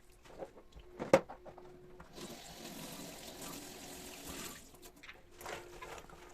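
A sharp knock, then water running from a tap for about two and a half seconds before it is turned off, followed by a few light clatters.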